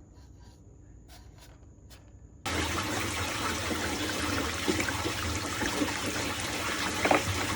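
Water swirling and gurgling down a sink drain in a strong whirlpool, starting suddenly about two and a half seconds in after a quiet stretch with a few faint clicks.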